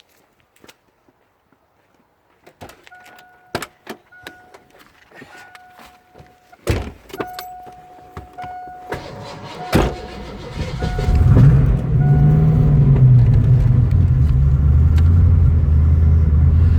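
Clicks and rattles, a steady warning tone sounding in short pulses, and two loud thumps. About 11 seconds in, the 1988 Mustang's twin-turbo 302 V8 starts, rises in pitch briefly and settles into a steady, loud idle.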